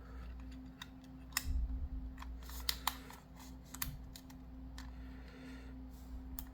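Small irregular clicks and taps of a Kadee #19 metal knuckle coupler being handled and pushed into the NEM coupler pocket of a model box car.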